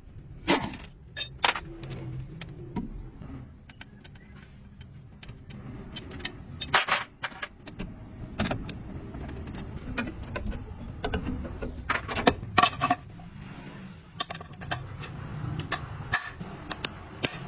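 Irregular metallic clinks and clanks of tools and metal parts being handled, a few louder knocks ringing briefly, over a low steady hum.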